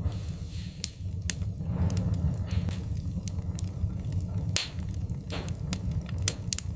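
Wood fire crackling, with several sharp, irregular pops and snaps over a steady low rumble; the loudest pop comes about two-thirds of the way through.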